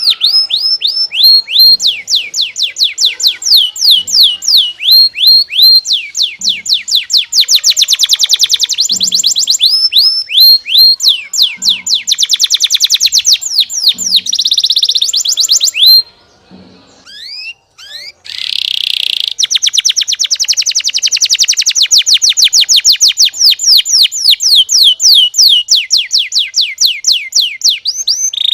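Domestic canary singing: long trills of rapid repeated notes, each sweeping downward in pitch, with the phrases changing speed and a short pause about sixteen seconds in.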